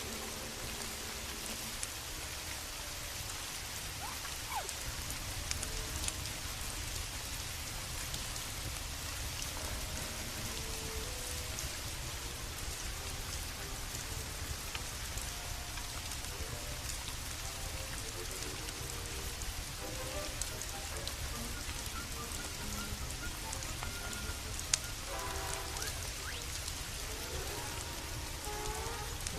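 Steady rain falling, an even hiss with scattered small ticks and one sharper click near the end. Faint soft musical tones waver beneath it.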